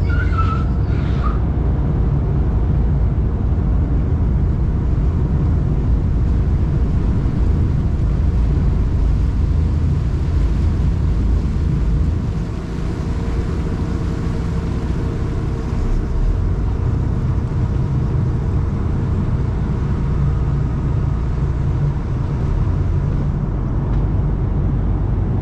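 Sightseeing boat's engine running steadily under way: a low, even rumble with a faint steady hum above it.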